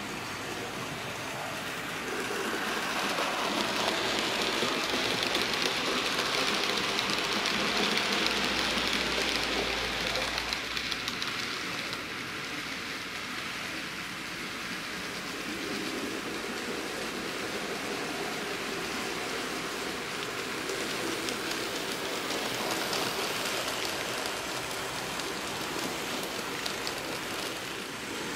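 A train running: a steady rushing noise that swells about two seconds in and eases off after about twelve seconds.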